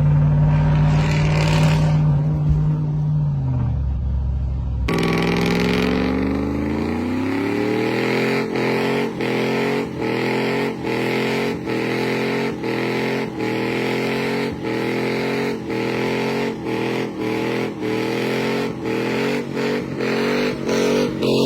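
Cammed 6.0-litre V8 pickup exhaust through a single Speedy Sport muffler with stock manifolds and a catless Y-pipe, pulling at part throttle. The note holds steady, then falls off about three seconds in. After an abrupt change about five seconds in it rises and holds, with regular dips in loudness about one and a half times a second.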